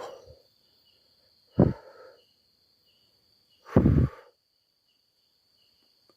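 Insects keep up a steady high trill with a faint chirp repeating about twice a second. Twice, about a second and a half in and again near four seconds, a man's voice gives a short exclamation or sigh that falls in pitch.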